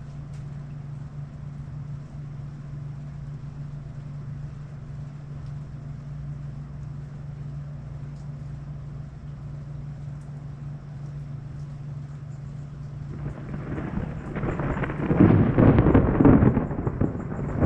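A steady low hum, then about thirteen seconds in a long rumble of thunder builds and grows loud, still rolling at the end.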